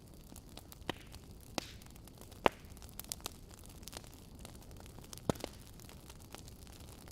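Wood fire crackling: scattered sharp pops and snaps over a soft steady hiss, the loudest pop about two and a half seconds in.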